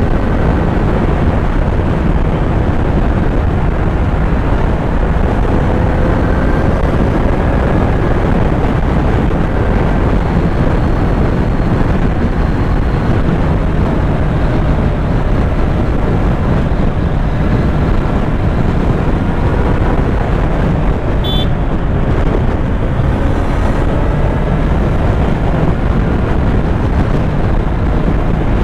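Kawasaki Z900 inline-four engine running at road speed under heavy wind noise on the microphone, its pitch rising and falling as the revs change.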